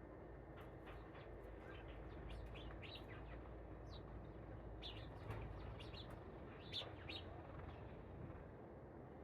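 Small birds chirping: many quick, high chirps scattered throughout, a little louder around the middle, over a steady low rumble.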